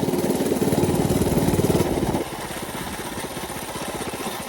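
Mini bike's small engine running under throttle with a fast, even firing beat, then dropping to a quieter, lower run about two seconds in as the throttle is eased off.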